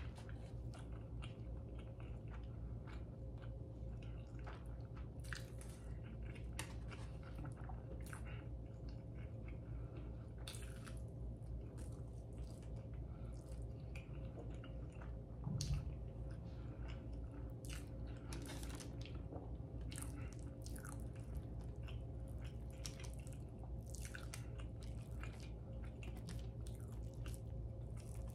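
Close-miked chewing and mouth clicks of someone eating pancakes, scrambled eggs and bacon, with a fork picking food off a foil-lined tray, over a steady low hum. A single louder soft thump comes about halfway through.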